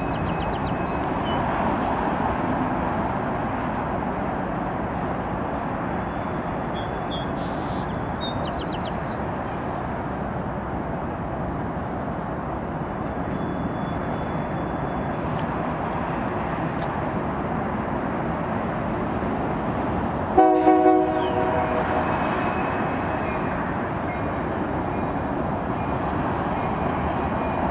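Freight train cars rolling past, a steady rumble of wheels on rail. About twenty seconds in, a locomotive horn sounds a loud chord for about a second, in two quick pulses.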